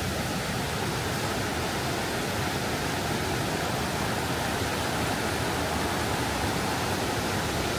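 Fast-flowing river water rushing steadily, a constant even noise with no let-up.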